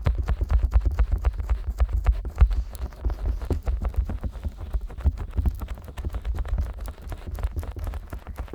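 Fingers tapping and rubbing quickly on the silicone ears of a 3Dio binaural microphone, slicked with petroleum jelly: a dense run of soft clicks and knocks with deep muffled thuds beneath, easing slightly after a few seconds.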